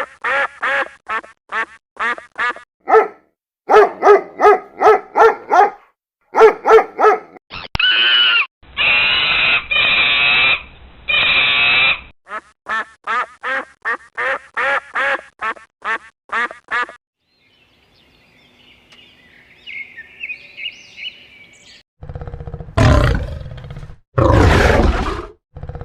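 A run of animal calls one after another: fast series of short calls, three long drawn-out calls, more short calls, then loud roars near the end.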